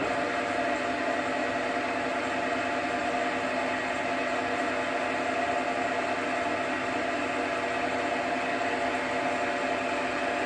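JFMT metal lathe running steadily under power, its motor and gear train turning the lead screw while thread-dial engagement positions for a metric thread are tried: an even whir with a few steady whining tones.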